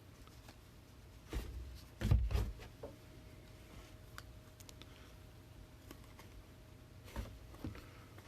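Trading cards being handled on a table: faint rustling and a few soft knocks, the loudest cluster about two seconds in and another near the end.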